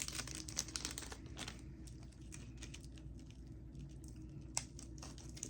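Faint crinkling and light clicking of plastic snack packaging being handled and opened, busiest in the first second or so, then a few scattered ticks.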